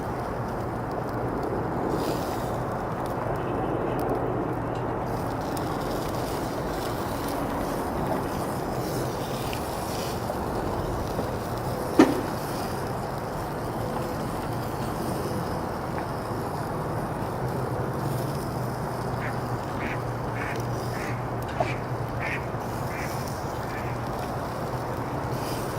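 A duck quacking, a quick run of about eight quacks near the end, over a steady background hiss. A single sharp click comes about halfway through.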